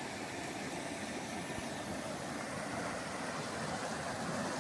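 Steady rush of water from a mountain stream and waterfall, an even noise without breaks.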